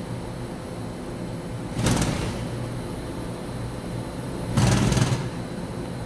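Mazak HCN 4000-III horizontal machining center's Y axis traversing back and forth at 100% rapid: a steady drive hum, with a loud clatter of the telescoping way covers twice, about three seconds apart, as the axis runs to each end of its travel. The way-cover chatter is expected, and the ball screw and thrust bearings sound fine.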